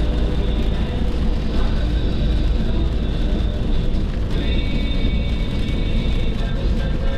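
Steady low road and engine rumble inside a car moving at highway speed. Faint music joins about four seconds in.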